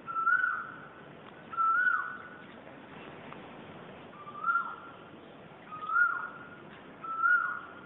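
A bird's clear whistled call, given five times with a second or two between calls; each note slides up, holds briefly and then drops away.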